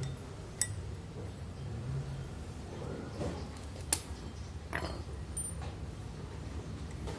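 Metal clinking and scraping as small metal parts or tools are handled, with two sharp clinks, one early and one about four seconds in, over a low steady hum.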